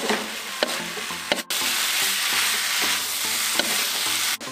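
Diced potatoes, chicken gizzards and livers and tofu sizzling in chilli paste in a wok while a wooden spatula stirs and scrapes them, with a few sharp knocks of the spatula against the pan early in the stirring.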